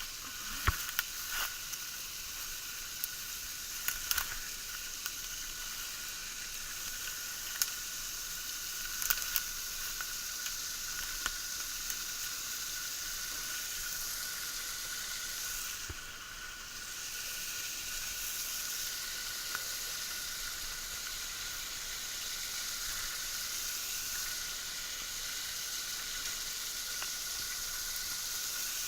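Small waterfall splashing steadily, a continuous hiss of falling water, with a few sharp clicks and knocks in the first part.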